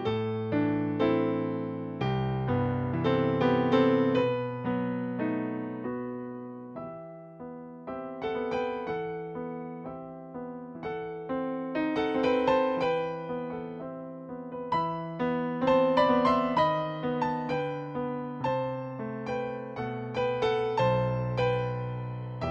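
Background music: a piano playing a slow melody with chords, each note sounding then fading.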